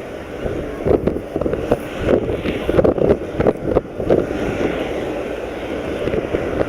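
Wind buffeting the microphone in irregular gusts over the engine noise of the Airbus A400M's four turboprops as the aircraft comes in to land.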